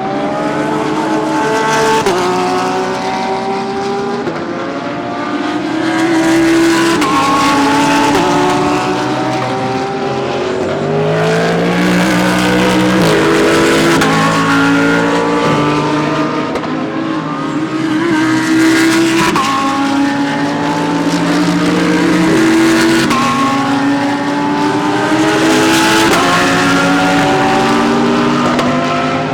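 GT3 race cars accelerating past one after another, engines rising in pitch and dropping back with quick upshifts. Several cars overlap, with the sound swelling as each passes.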